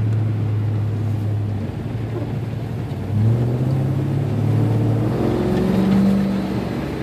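Vehicle engine heard from inside the cab while driving: a steady low hum, then from about three seconds in the engine note rises in steps as it accelerates, settling back near the end.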